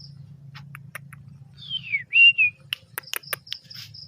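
Oriental magpie-robin calling: a loud whistle that slides down and then holds briefly, followed by a run of short sharp chirps. An insect trills high in the background.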